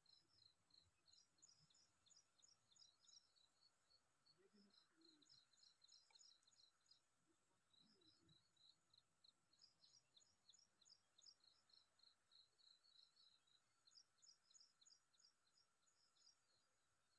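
Faint bird song: phrases of quick, high chirps at several pitches, repeated every few seconds over a quiet outdoor background.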